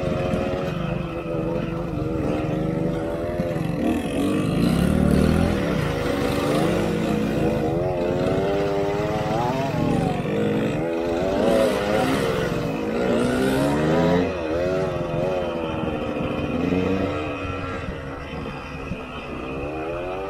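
KTM 125 EXC two-stroke single-cylinder enduro engine running under way, its revs rising and falling repeatedly as the throttle is worked along the trail.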